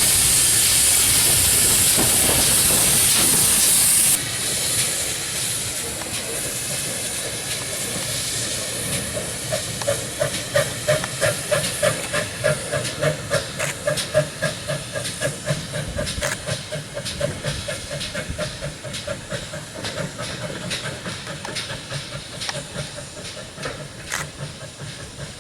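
Steam locomotive: a loud, steady hiss of escaping steam cuts off suddenly about four seconds in. Then come rhythmic exhaust beats, about three a second, that fade toward the end.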